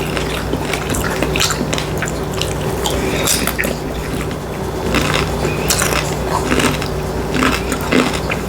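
Close-miked chewing and wet mouth sounds of someone eating breakfast food: many short smacks and clicks over a steady low hum.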